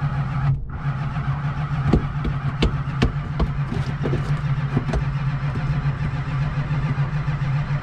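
A starter motor cranks a cold classic car's carbureted engine over steadily, and the engine does not catch. A few sharp clicks come through in the middle of the cranking. The owner suspects the engine is not getting spark.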